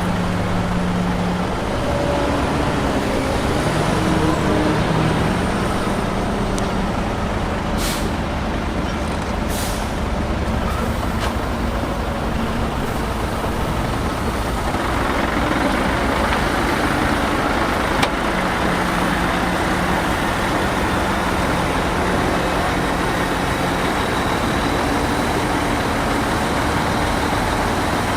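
Heavy diesel earthmoving machinery running steadily, with two short high hisses about eight and ten seconds in.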